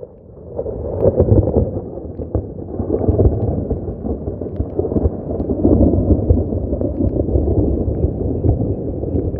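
Thunder rumbling over steady rain, swelling about a second in and then rolling on with crackles.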